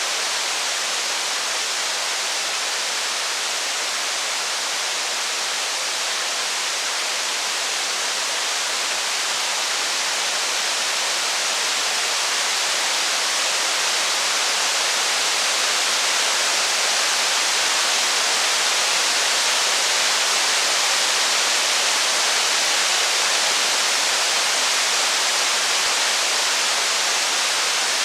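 Steady heavy rain, an even hiss that grows slightly louder about halfway through.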